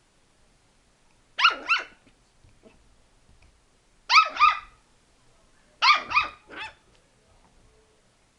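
A dog barking in three short volleys of two or three quick, high-pitched barks each, about 1.5, 4 and 6 seconds in.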